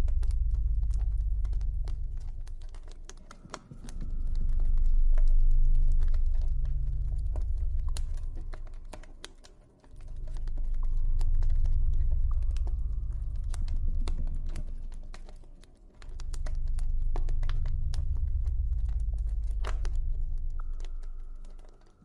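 Campfire crackling with frequent sharp pops and snaps, over a low ambient drone that swells and fades in waves about every six seconds, with faint high held tones.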